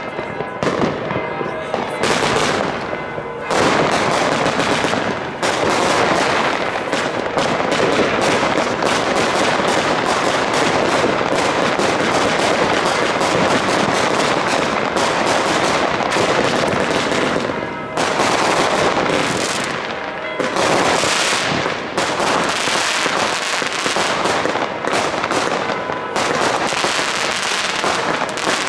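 Consumer firework batteries (cakes) firing in rapid succession: a dense, almost continuous stream of shots and crackling aerial bursts, with a few short lulls.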